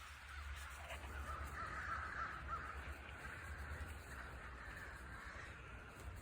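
A flock of crows cawing at a distance, many faint calls overlapping, loudest a second or two in.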